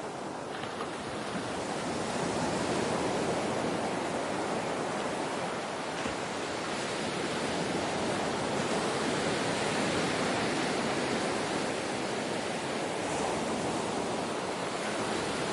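Ocean waves breaking and washing on a shore in a steady wash of surf, swelling slowly and easing off.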